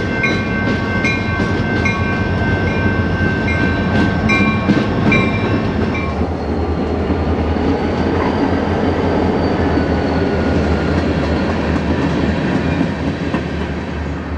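Diesel freight train: for about six seconds a bell rings about twice a second over a steady high squeal. Then an EMD diesel locomotive passes close, its engine running with a steady low drone.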